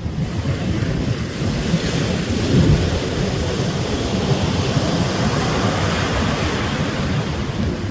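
Ocean waves breaking and washing in as a continuous surf noise, swelling to its loudest about two and a half seconds in.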